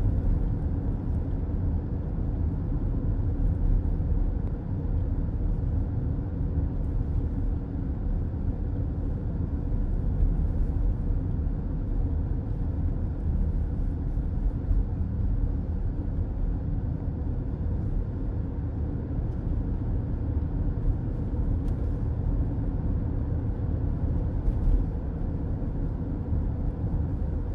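Car interior road noise while driving: a steady low rumble of tyres and engine, heard from inside the cabin.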